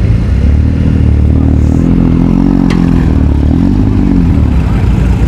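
A vehicle engine running loud and low, its pitch rising and falling as it is revved, with one sharp click in the middle.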